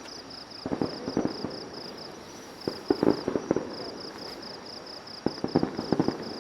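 Fireworks bursting in three clusters of rapid bangs and crackles, about a second in, around three seconds in and near the end. An insect chirps in steady, even pulses high above them.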